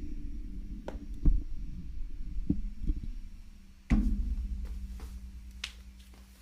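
Low-pitched sound-bath percussion struck several times, each deep stroke ringing on and fading, the strongest about four seconds in, then dying away slowly.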